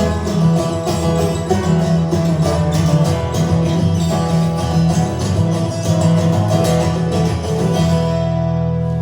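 Live acoustic guitar music playing an instrumental passage with no singing. It ends on a chord left ringing near the end.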